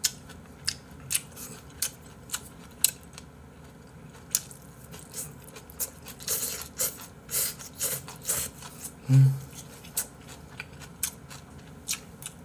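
A person eating close to the microphone, chewing rice and braised mackerel with many quick wet clicks and smacks. There is a burst of louder chewing about six seconds in and a short low 'mm' hum about nine seconds in.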